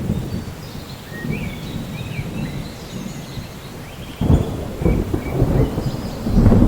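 Rainforest ambience of rumbling thunder and rain, with the thunder swelling suddenly about four seconds in and again near the end. Birds chirp in short high notes over it.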